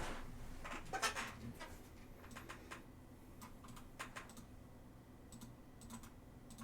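Faint, irregular clicks and taps of typing on a computer keyboard, with a few louder handling rustles in the first second or so.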